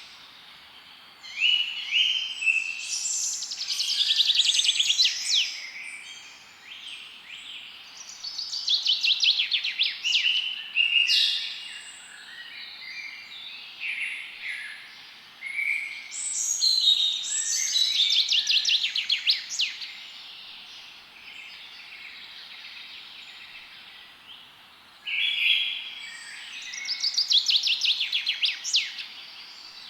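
Several songbirds singing and chirping in a forest chorus, phrases overlapping, with rapid trills of repeated notes in bursts and a quieter stretch a little past the middle.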